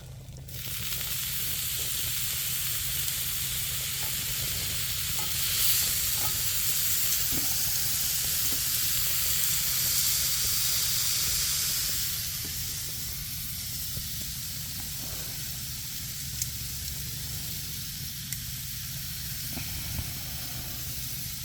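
Steak sizzling as it sears: a steady frying hiss with a few small pops, loudest in the first half and easing a little after about twelve seconds.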